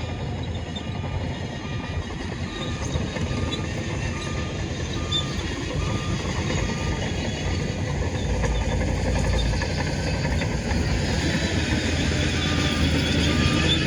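Heavy diesel earthmoving machinery running steadily, with a reversing alarm beeping about one and a half times a second. The beeping stops about halfway through and starts again near the end. The engine noise grows louder toward the end.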